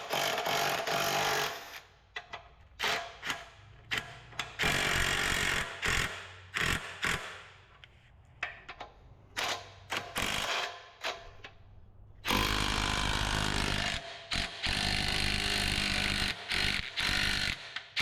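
Power tool running in many short bursts, with a longer run about twelve seconds in, typical of a drill or impact driver working a scissor jack's screw.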